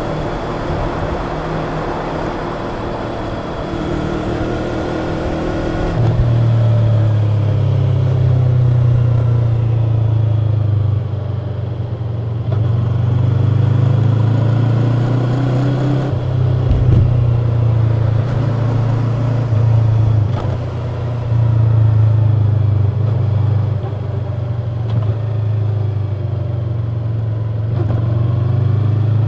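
Yamaha YZF-R25's parallel-twin engine running through its stock exhaust while the bike is ridden. The engine note rises and falls with the throttle, and the level steps up and down several times, over a steady rush of wind and road noise.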